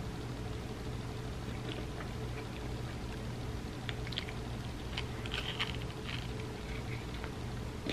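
A crunchy chip heavy with thick chocolate dip bitten and chewed close to the microphone, with a few short crisp crunches and wet mouth sounds about four to six seconds in, over a steady low hum.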